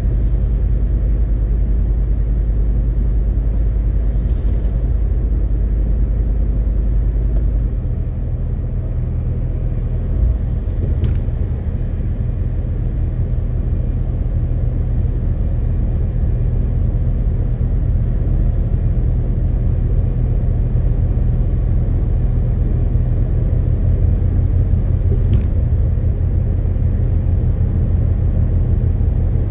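MAN TGX 18.520 truck driving on the road: the diesel engine's steady low drone over road rumble. About eight seconds in, the engine note changes and the level dips slightly, and a few faint ticks come through.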